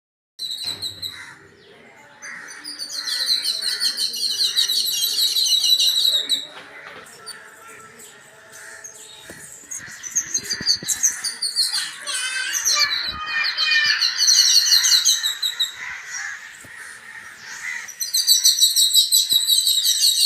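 Small birds chirping in fast, rapidly repeated trills, in three bursts of a few seconds each, over softer continuous twittering.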